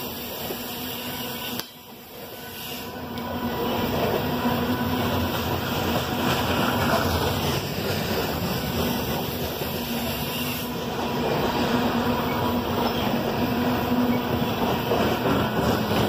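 Freight train of open-top coal cars rolling past: a steady noise of steel wheels running on the rails. The level drops suddenly about two seconds in and builds back over the next two seconds.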